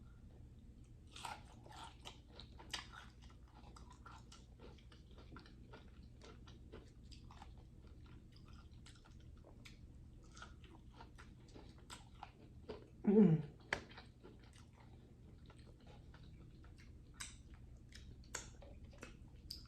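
Close-up chewing and biting of calamari, a steady run of small crunches and mouth clicks. A short falling hum of enjoyment comes about thirteen seconds in.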